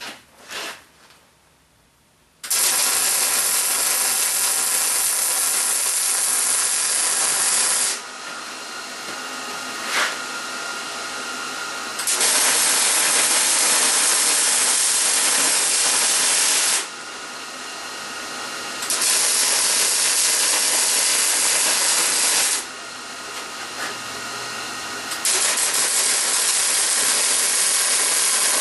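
Gas-shielded arc welder laying weld in four runs of about four to five seconds each. The loud, steady hiss of the arc stops between runs, leaving a quieter hiss. A few small knocks come just before the first run.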